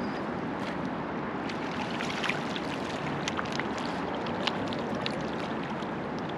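River water running and babbling around a drifting raft, with many small splashes and drips scattered through the middle.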